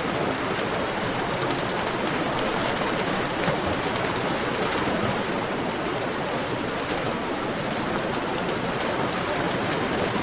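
Heavy rain falling steadily, a dense even hiss with the patter of individual drops striking a surface.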